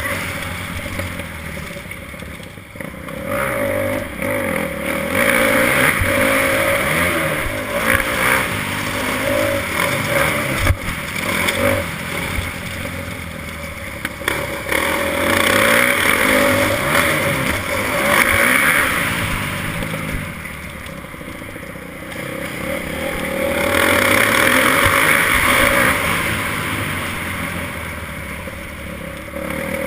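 Motocross bike engine running as the bike rides, its sound swelling and dropping every few seconds.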